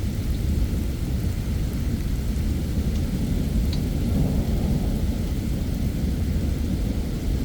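Thunderstorm: a low, continuous rumble of thunder that swells about halfway through, over the steady hiss of heavy rain.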